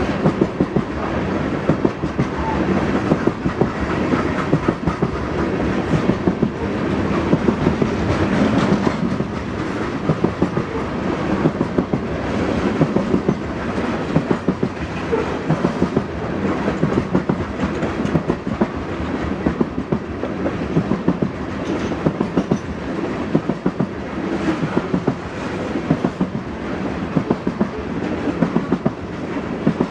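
Loaded coal train's open-top freight cars rolling past: a steady rumble of steel wheels on rail, with a quick cluster of clickety-clack clicks about every two seconds as each car's wheel sets cross the rail joints.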